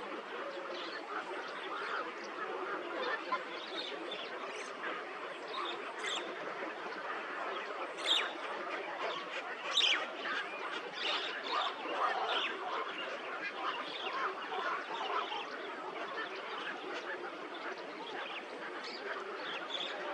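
Many birds calling at once, a dense, unbroken chatter of short calls, with a few louder, sharper calls standing out about eight and ten seconds in.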